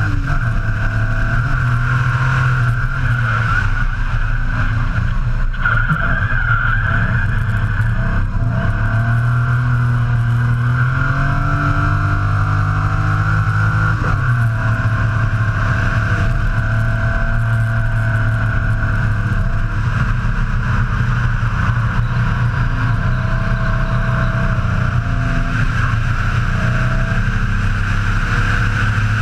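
BMW S38 straight-six engine of a drift truck at high revs, the pitch rising and falling again and again as the throttle is worked through the drifts, with tyres squealing under it.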